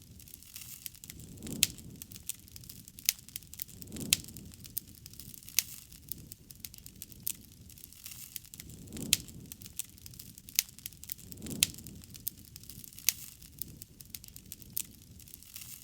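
Wood campfire crackling, with frequent sharp pops and snaps at an uneven pace. A soft low rush swells up four times along the way.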